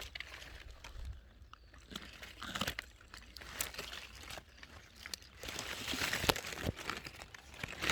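Irregular rustling and crackling, with scattered sharp clicks.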